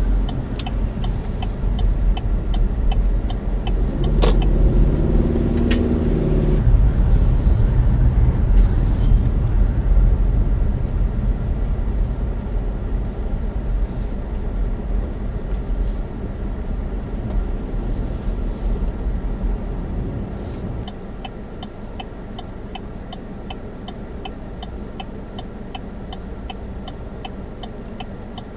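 Chevy Spark driving, with a low road and engine rumble heard from inside the cabin. The rumble eases off about two-thirds of the way in. A turn-signal relay clicks about three times a second at the start, and again steadily after the rumble eases.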